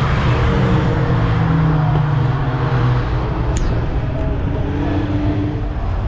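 Racing pickup truck engine running at a fairly steady speed, a continuous low drone, with a brief high chirp about three and a half seconds in.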